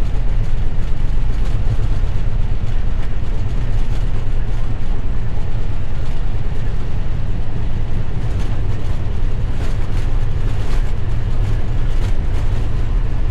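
Steady loud rumble in an Airbus A321 cockpit during the takeoff roll, its IAE V2500 engines at FLEX takeoff thrust and the airframe shaking over the runway. A few light knocks come through in the second half.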